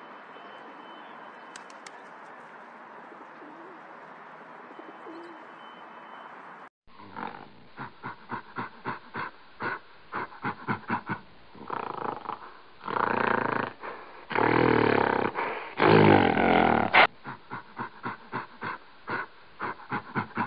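Steady background hiss for about seven seconds, then a gorilla vocalising: a run of short grunts, two or three a second, broken by three longer, louder low calls, with more grunts after them.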